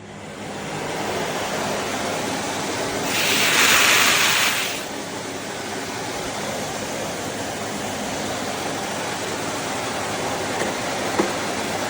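Philips Series 3000 Performer Compact 900 W bagged vacuum cleaner switched on, its motor spinning up over the first second and then running steadily. A louder rush of air lasts about two seconds, starting about three seconds in.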